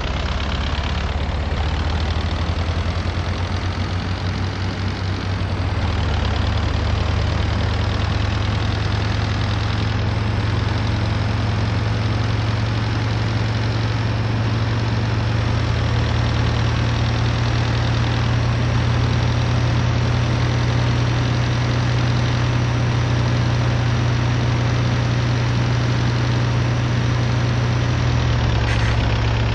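MAZ-241 city bus's diesel engine running with a steady low hum, heard from inside the bus, shifting slightly about six seconds in and again near the end.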